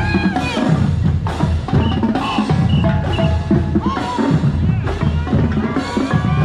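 High school marching band playing, led by its drumline: snare drums and bass drums beating steadily.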